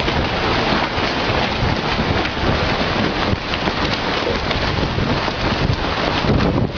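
Strong wind blowing hard and battering the microphone: a loud, continuous rushing noise full of crackle.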